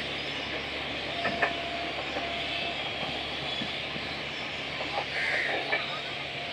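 Steady low hum and rumble of trains at a railway station platform, with a few faint clicks.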